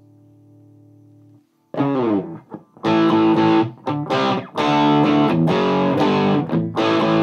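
Gibson Les Paul through a Mesa Boogie Dual Rectifier on channel 2 in Raw mode at 100 watts, gain at its lowest setting, into a Marshall 1960A cabinet: lightly distorted electric guitar chords. A faint ringing note dies away, then loud chords start about two seconds in, struck in short phrases with brief stops.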